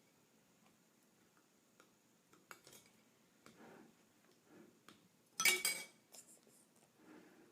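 A spoon clinking and scraping against a cup while stirring slime mixture, in scattered strokes. A louder burst of clinks comes about five and a half seconds in.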